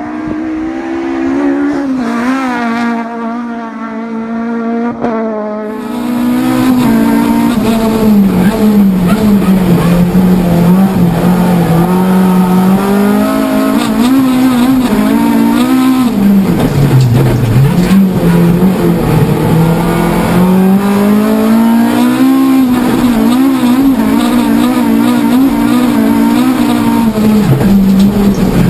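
Honda Civic EP3's K20 four-cylinder engine heard from inside the cabin under hard driving, its pitch repeatedly rising and falling as it accelerates and backs off. A louder rushing noise joins over the engine about six seconds in.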